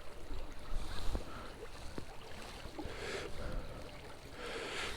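Creek water running and sloshing, with rustling and a few small knocks.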